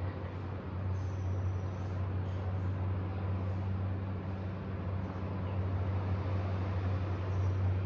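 Outdoor balcony ambience: a steady low hum under an even wash of noise, with no distinct events.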